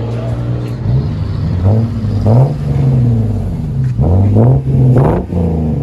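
2004 Lexus IS 300's 3.0-litre inline-six idling through a muffler-delete exhaust with the factory resonator still on, then revved in several quick throttle blips that rise and fall back to idle. The note is deep.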